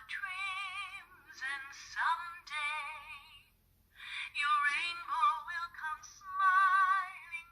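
A Disney Store Cinderella toy's small built-in speaker playing a recorded woman's singing voice with strong vibrato, in several short phrases with brief pauses between them. The sound is thin, with no low end.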